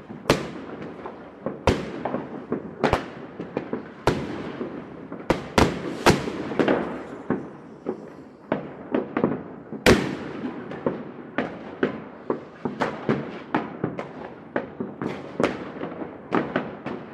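Fireworks going off in a city: a steady, irregular string of sharp bangs, several a second at times, each trailing off in echo. The loudest bang comes near the middle.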